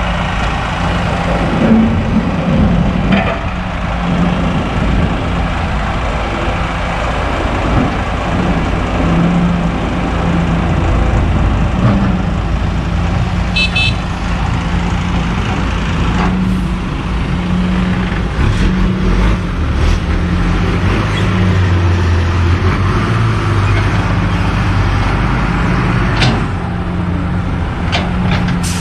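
Kobelco SK200 hydraulic excavator working, its diesel engine running continuously with the pitch shifting as it works. A short high beep comes about halfway through, and a few sharp knocks come in the second half.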